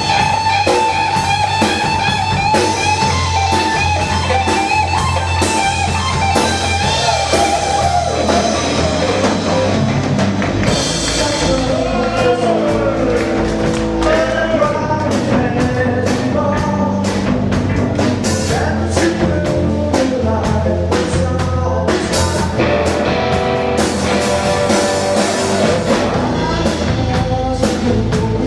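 Live rock band playing: an electric guitar lead over bass and drum kit, with singing coming in about halfway through.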